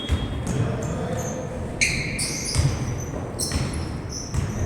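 Basketball game sounds: sneakers squeak sharply on the court several times, and the ball thumps on the floor now and then.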